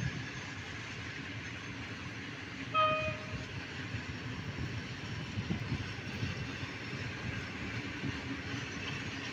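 Freight train of tank wagons rolling past: a steady rumble of wheels on rail with irregular knocks. One short high tone sounds once about three seconds in.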